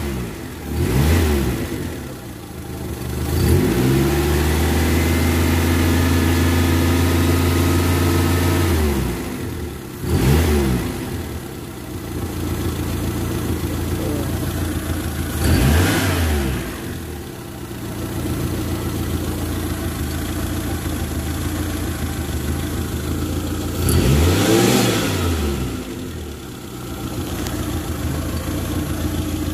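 Mitsubishi Colt T120SS engine idling and being revved: a short blip about a second in, a held rev from about four to nine seconds, then quick blips near ten, sixteen and twenty-four seconds, each time settling back to idle.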